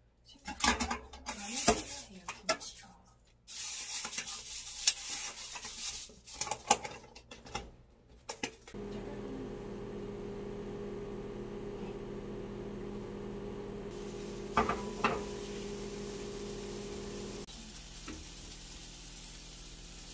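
Cookware clattering on a gas stove, then chopped kimchi sizzling in a frying pan as it is stirred with a wooden spatula. Partway through, a steady hum takes over, with a couple of knocks.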